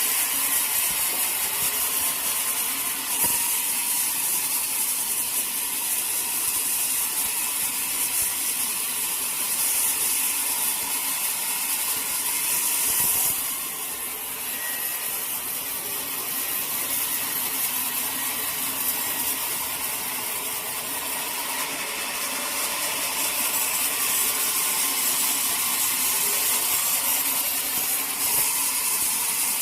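A sawmill saw cutting through a teak log, a steady, hissing mechanical run that eases off briefly about halfway through before picking up again.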